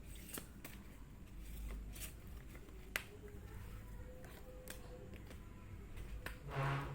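Tarot cards being handled and drawn from the deck: scattered light clicks and taps of cards, one sharper click about three seconds in. Near the end comes a brief pitched sound, the loudest moment.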